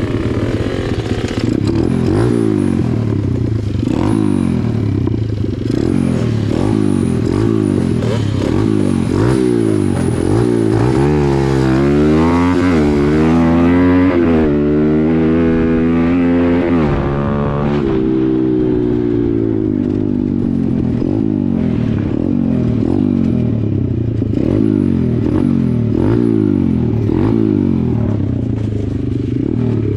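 Small dirt bike engine revving hard while riding. Its pitch repeatedly climbs and drops, with long sweeping rises and falls about halfway through.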